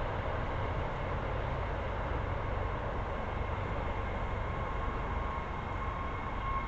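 Train rumbling steadily at a station platform, with a thin steady high tone coming in near the end.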